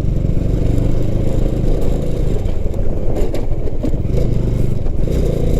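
Motorcycle engine running steadily while riding, with rattling and clatter from the bike.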